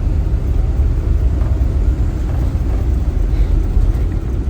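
Steady low rumble of engine and road noise heard from inside a moving vehicle cruising at an even speed.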